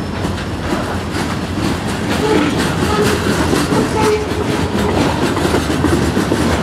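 Freight train covered hopper cars rolling past close by: a steady loud rumble with the wheels clacking over rail joints, and a few short wavering tones above it.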